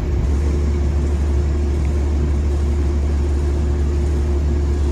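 Steady low engine drone of a train standing at the platform, with a constant hum and a faint steady tone above it.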